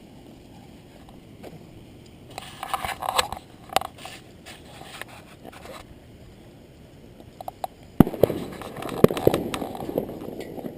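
Aerial fireworks going off: a spell of crackling with sharp cracks about two seconds in, then a loud sharp bang about eight seconds in followed by a couple of seconds of dense crackling.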